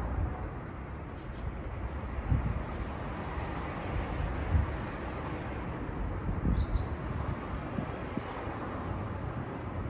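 Steady low outdoor rumble with irregular gusty thumps on the microphone. A brief faint high chirp from a small bird comes about six and a half seconds in.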